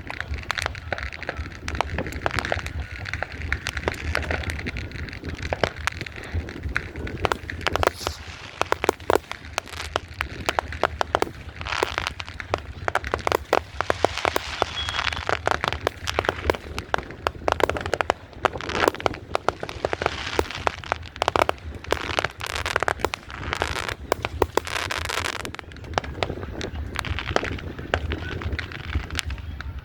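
Fireworks going off, a dense run of sharp bangs and crackling in quick succession, busiest through the middle of the stretch.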